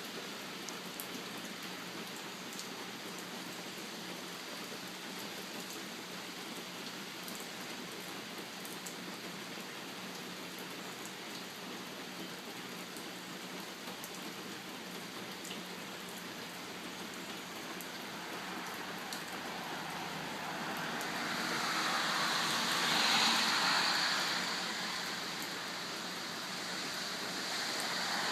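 Steady rain falling, a hiss with scattered drop ticks. A rushing noise swells up about two-thirds of the way through, eases off, and rises again near the end.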